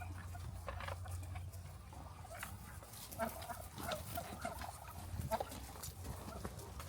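Poultry calling on a farm: short, scattered calls and clicks, busiest in the middle, over a steady low hum.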